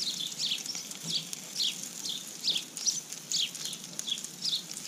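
A small bird calling over and over: short, high notes that each sweep downward, about two a second.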